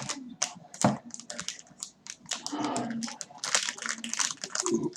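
Close-up chewing of crunchy food, a quick run of crisp crunches and clicks, with a louder knock about a second in.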